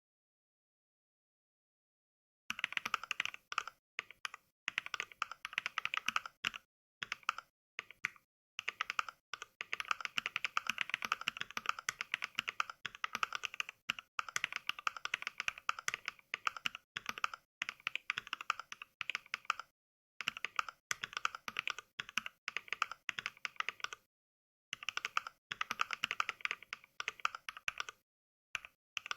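Mechvibes' NK Cream sound pack playing a sampled mechanical-switch clack for each keystroke of fast touch typing. The keystrokes come in quick runs broken by short dead-silent gaps, after silence for the first couple of seconds.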